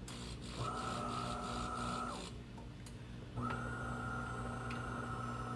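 De'Longhi Dinamica espresso machine running its self-flushing rinse at switch-on. A steady mechanical whine over a low hum runs for about a second and a half, stops for about a second, then starts again.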